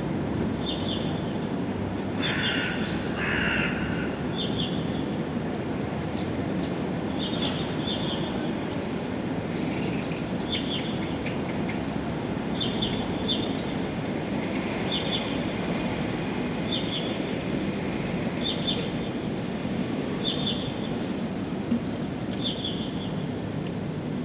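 A songbird repeats a short, high chirp, often doubled, roughly once a second, with a couple of lower calls a few seconds in. Steady low background noise runs underneath.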